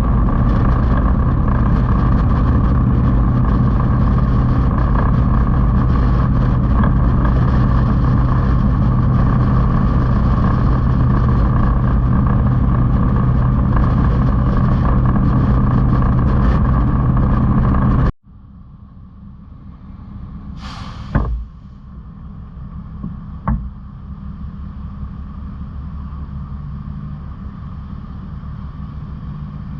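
Motorcycle engine running steadily with road and wind noise while riding. It cuts off abruptly about 18 seconds in to a quieter, steady engine sound that slowly builds. A short hiss comes a few seconds after the cut, and a sharp knock a couple of seconds later.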